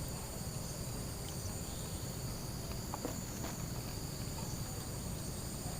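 Night insect chorus of crickets and similar insects: several steady, high-pitched continuous trills over a low background rumble, with a few faint ticks.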